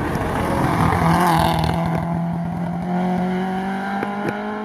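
Ford Escort hill-climb car's engine pulling hard, its pitch rising slowly as it accelerates. There is a louder rush about a second in and a sharp crack about four seconds in.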